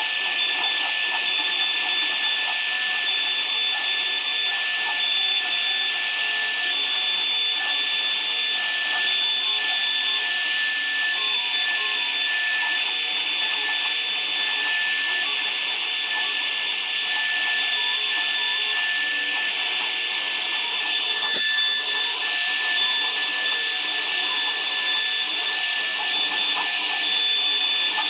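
A woodworking power tool running steadily under power, an even high-pitched rush of noise with a constant high whine that does not change for the whole stretch.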